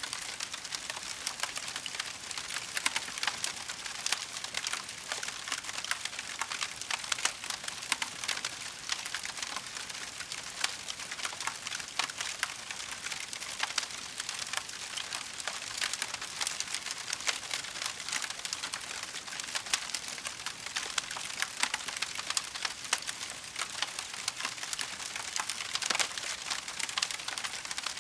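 Wood fire crackling in a fireplace: a dense, steady run of small pops and snaps over a hiss.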